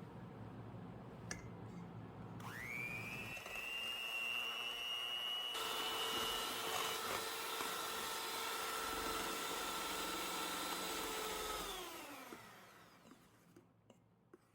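Electric kitchen mixer motor starting up with a rising whine, running steadily at speed, then winding down with a falling pitch near the end.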